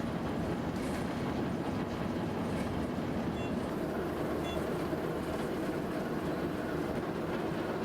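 Train running along the track: a steady rolling rumble.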